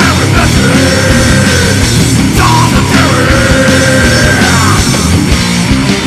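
Heavy rock song with a dense band backing and a lead melody that slides up into long held notes twice.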